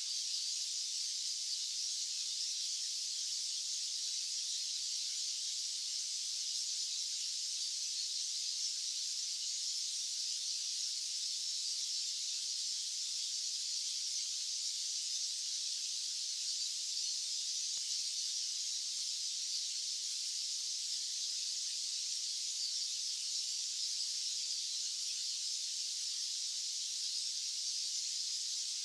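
Steady white-noise hiss, high and thin with no low rumble, unchanging.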